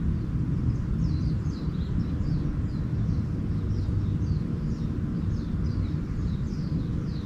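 Small birds chirping in a quick run of short, falling high notes, starting about a second in, over a steady low rumble.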